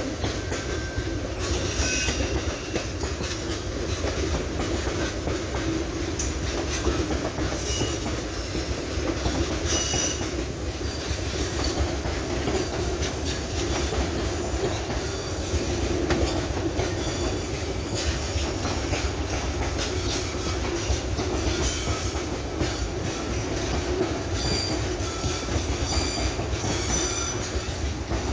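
Loaded sand wagons of a freight train rolling past: a steady rumble of steel wheels on the rails, with brief high wheel squeals now and then.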